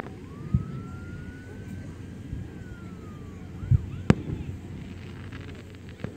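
Fireworks display: a few dull booms and one sharp bang about four seconds in. A siren wail rises, holds and falls away during the first three seconds or so.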